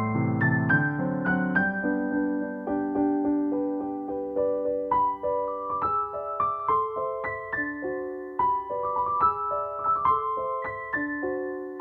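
Background piano music: a low chord held at the start, then a gentle melody of single notes, about two or three a second.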